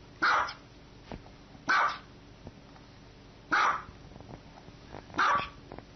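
Small white dog barking: four short, high-pitched barks, evenly spaced about every second and a half to two seconds.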